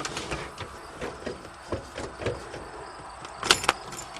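Scattered small clicks, knocks and rubbing of handling, with two sharp clicks about three and a half seconds in.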